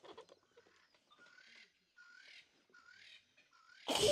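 Faint bird calls: a short call repeated roughly every two-thirds of a second. Right at the end a child's high voice cuts in loudly.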